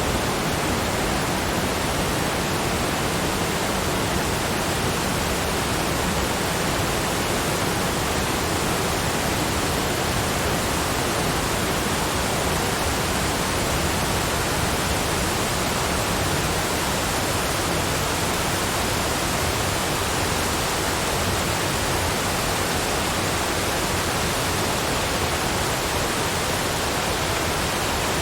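Steady, unchanging rushing noise spread evenly from low to high pitches, with no separate events and no change in level.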